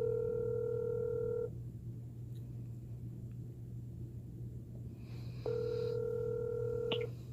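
Telephone ringback tone heard over the phone line while a call rings unanswered. The ring ends about a second and a half in and comes again near the end, about two seconds on and four off, over a steady low line hum. A click sounds as the second ring stops.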